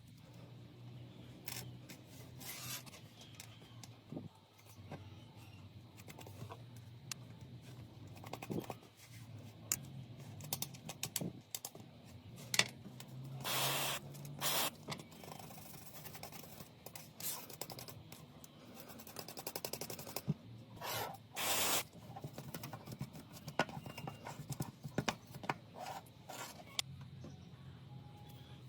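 Small hand tools clicking, tapping and scraping against a smartphone's parts during repair work on a cracked Samsung Galaxy Note 8. Several short, harsher scraping or hissing strokes come near the middle and again about two-thirds of the way in.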